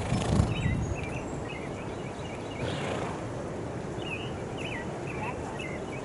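Songbirds chirping and singing over a steady low background rumble.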